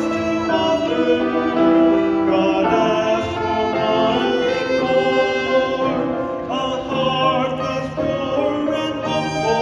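An ensemble with violins and other bowed strings playing a worship song, with several sustained, vibrato-laden melodic lines.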